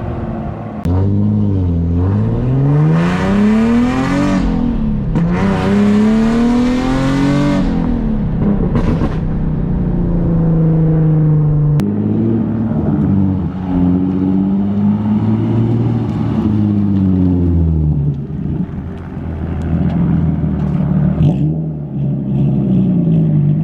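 Nissan 370Z's 3.7-litre V6 through a full Tomei exhaust, accelerating hard and loud. The pitch climbs, drops sharply at a gear change about four and a half seconds in, and climbs again. After that the engine settles and rises and falls with the throttle.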